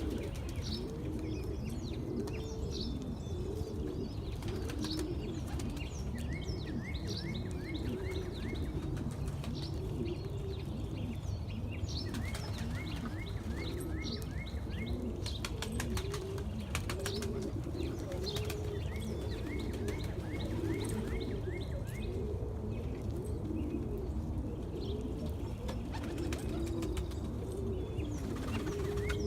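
A flock of birds calling over each other: a continuous low cooing with short, higher chirps on top. About halfway through come a run of sharp clicks.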